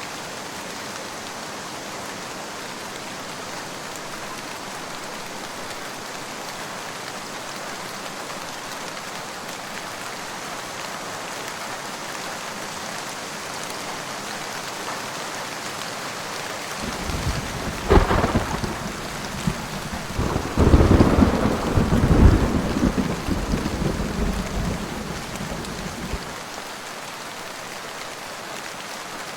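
Steady rain falling, with a thunderclap about two-thirds of the way through: a sharp crack, then several seconds of rolling rumble that fades away.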